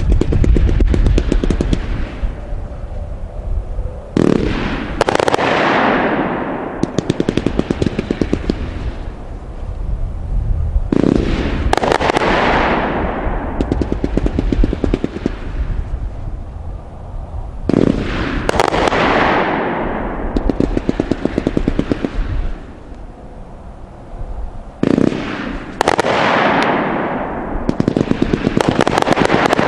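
A 128-shot 500 g firework cake (Magnus Fireworks Cloud Castle) firing a rapid string of shots. It comes in waves about every seven seconds, each opening with a heavy burst and trailing off in a falling hiss full of fast strobe crackle.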